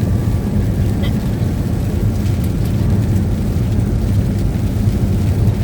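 Steady low drone of engine and road noise heard inside a moving truck's cab.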